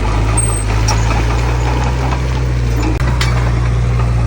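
Heavy diesel engine of earthmoving machinery running steadily with a deep, constant hum, with a brief knock about three seconds in.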